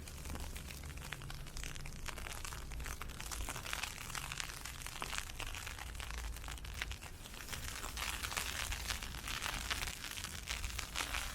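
Wind-blown ice pellets ticking in a dense, irregular patter, over a low rumble.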